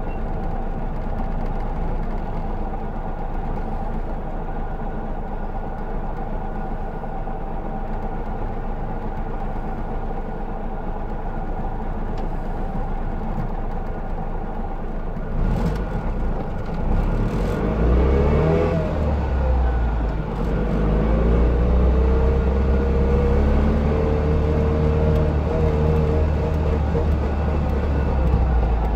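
Trabant 601's two-cylinder two-stroke engine idling, heard from inside the cabin, then revving up about halfway through as the car pulls away and settling into steady running under way.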